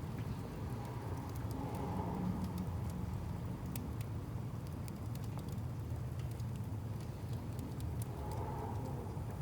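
Firewood burning in a bonfire, with scattered sharp crackles and pops over a steady low rumble.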